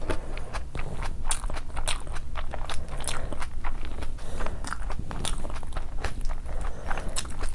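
Close-miked chewing of a large mouthful of food, with wet smacking and clicking mouth sounds coming irregularly several times a second.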